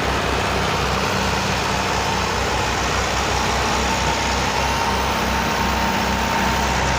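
Belarus tractor's diesel engine running steadily with a low, even pulse. A faint thin whine comes in about halfway.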